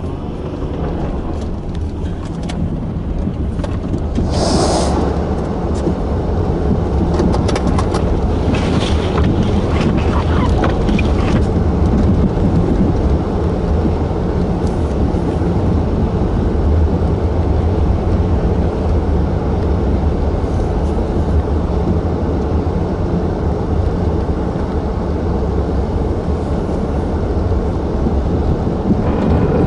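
Blizzard wind blowing hard against the microphone: a steady, loud low rumble, with a few brief crackles about four seconds in and again around nine to eleven seconds.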